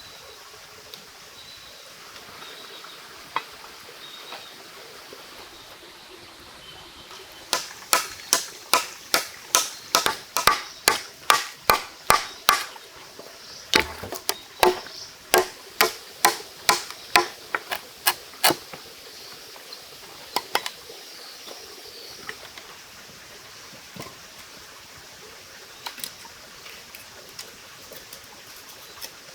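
Two runs of quick chopping strikes, about two or three blows a second with a short break between them, over a steady running stream.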